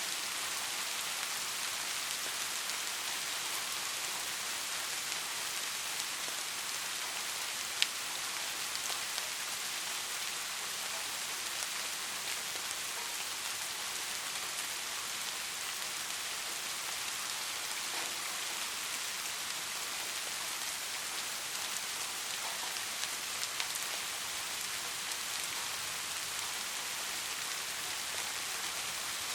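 Steady soft rain falling, an even hiss of many drops, with a single sharp tick of a drop about eight seconds in.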